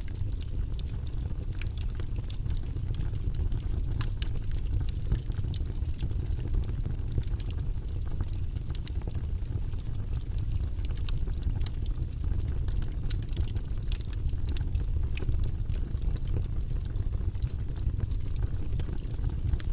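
Wood fire crackling: a steady low rumble of the flames with frequent sharp pops and snaps scattered all through.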